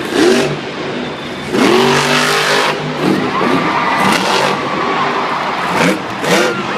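Monster truck's supercharged engine revving hard in repeated bursts, its pitch swooping up and falling back several times, with loud surges of noise.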